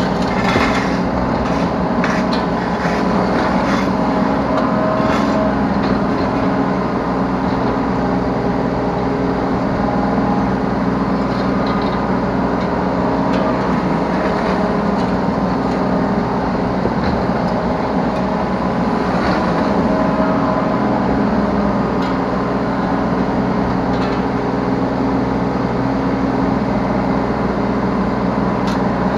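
Yanmar B3Σ 3-ton mini excavator's diesel engine running steadily while working, heard from the operator's seat, with scattered short knocks and clunks in the first few seconds and again about two-thirds of the way through.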